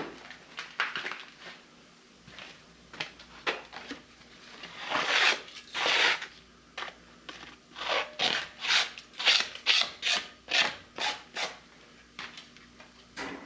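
Rasping, scraping strokes, irregular at first, then a quick run of short strokes about two a second.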